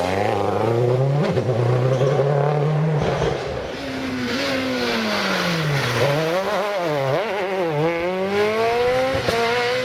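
Rally car engine revving hard: its pitch climbs steadily for about three seconds, falls away, then climbs again with a few brief dips as it accelerates through the gears.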